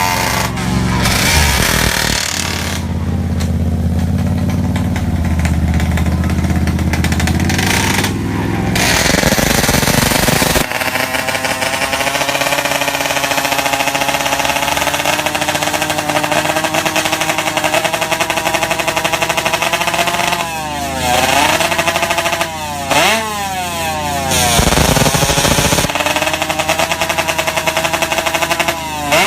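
Superbike engines running loud and high-revving. In the second half the pitch repeatedly drops and climbs steeply, as with hard revving and gear changes under acceleration.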